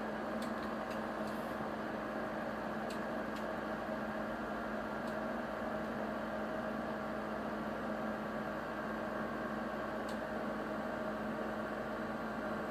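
Steady electrical hum made of several fixed tones from an amplifier power supply on the test bench, running under load into a dummy load, with a few faint ticks.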